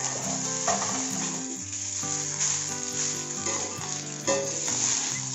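Pre-cooked basmati rice and vegetables sizzling in a hot iron kadai as they are stirred and tossed with a steel ladle, the ladle striking and scraping the pan a few times. Background music with held notes plays underneath.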